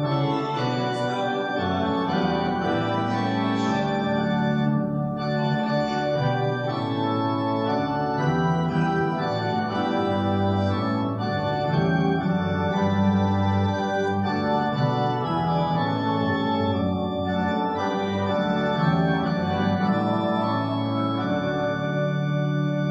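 Church organ playing sustained chords that change every second or two, with no singing.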